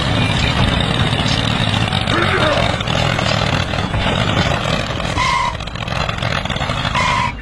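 Vehicle engine noise, steady and dense, with two short beeps about five and seven seconds in.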